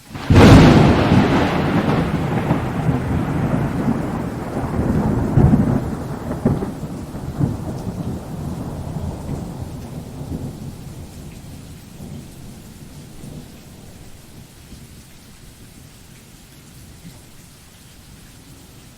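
Thunder: a sudden loud clap just after the start that rolls on as a long rumble, swelling again about five seconds in, then dying away over the next ten seconds or so, over steady rain.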